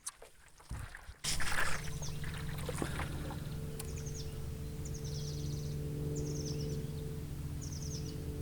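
A paddle stroke splashing in the water a little over a second in, then a bird repeating a short high trill about every second, over a steady low hum.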